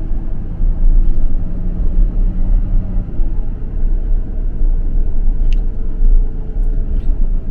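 Steady low rumble of a vehicle's engine and tyres heard from inside the cabin while driving slowly.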